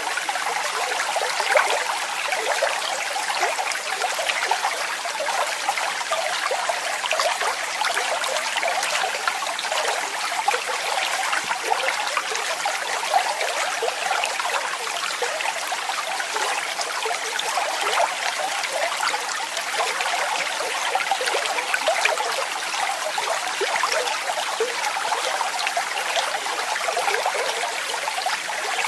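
Waterfall: water falling and splashing steadily, a bright, even rush with little deep rumble.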